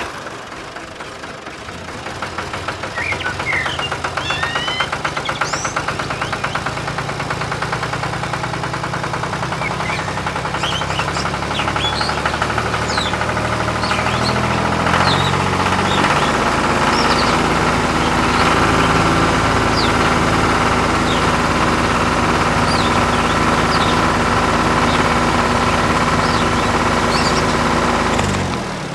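A motor running steadily. It picks up about two seconds in and grows louder and steadier around halfway.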